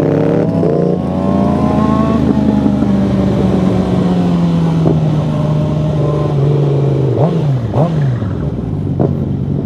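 Sportbike engine under way, its pitch rising as it accelerates over the first two seconds, then holding steady and slowly easing off. About seven and eight seconds in there are two quick dips and rises in pitch.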